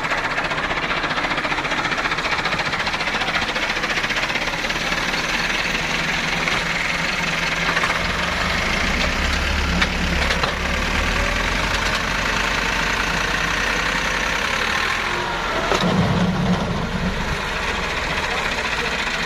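Tractor engine running hard under load, pulling a sand-laden trolley that is stuck and chained to it. About eight seconds in, the low rumble grows heavier.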